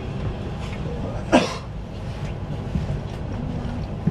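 Steady low rumble inside the cabin of a CRH1A high-speed train running at speed. A single short, loud sound cuts through it about a second and a half in.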